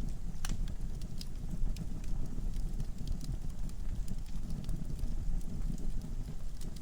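Wood logs burning in a fireplace, crackling: irregular sharp pops and snaps over the low, steady sound of the flames, with one stronger pop about half a second in.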